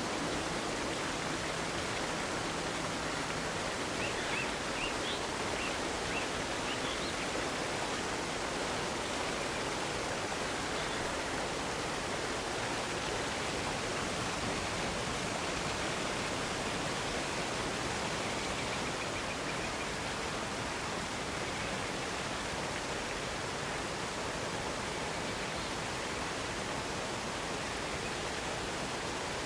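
Waterfall: a steady, even rush of cascading water. A few faint high chirps sound about four to seven seconds in.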